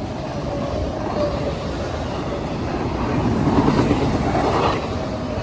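Freight train rolling past: a steady rumble of wheels on the rails that swells about three seconds in and eases near the end.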